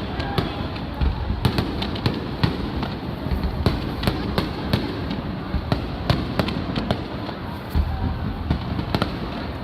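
Fireworks display: a rapid run of sharp cracks and crackling from bursting shells, with deep booms about a second in and again near the end.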